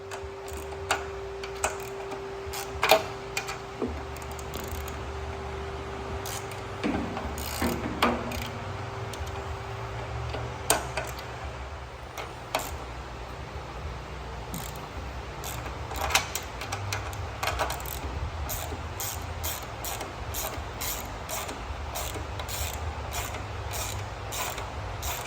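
Hand ratchet wrench clicking as bolts are loosened and backed out, with a few separate knocks of metal on metal. About two-thirds of the way in the clicking turns into a quick, even run of clicks.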